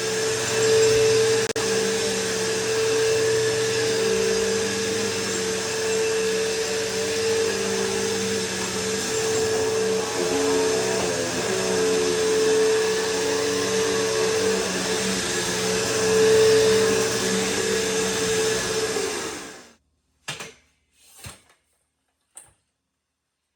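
Bissell PowerForce Bagless upright vacuum cleaner running steadily with a steady motor whine while vacuuming, its pitch wavering a little. It stops abruptly near the end, followed by a few clicks.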